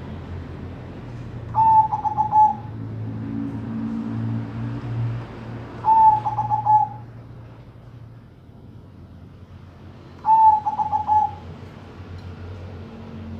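Zebra doves (Bangkok-type perkutut) cooing: three calls about four seconds apart, each a short rising note followed by a quick run of rolling coos.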